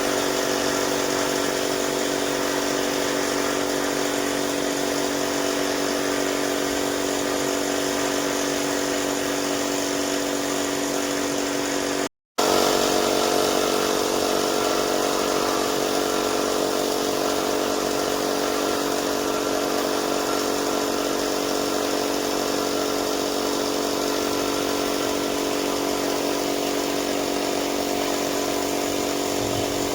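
An electric motor-driven power tool running steadily, with a constant whine. A brief dead-silent break comes about twelve seconds in, and then it runs on as before.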